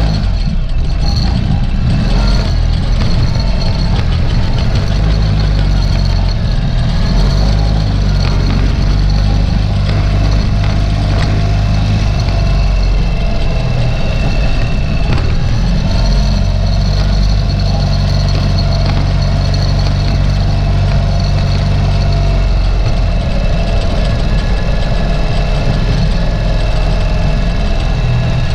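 Ural sidecar motorcycle's air-cooled boxer twin engine running while riding slowly through snow, its note changing several times as the throttle opens and closes.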